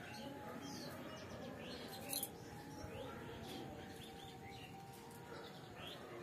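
Small birds chirping, many short quick calls that rise and fall in pitch, scattered throughout. A brief sharp noise about two seconds in.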